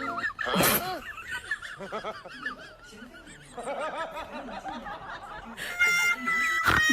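Person laughing in high-pitched, breathless giggles. Steady tones near the end.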